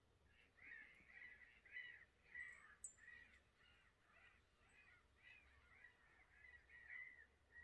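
Faint bird calls repeated about twice a second, over otherwise near silence.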